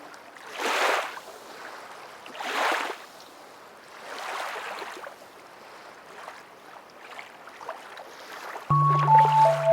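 Sea waves washing in, a few separate swells of surf rising and falling. Near the end, music starts with a held low note under short melody notes.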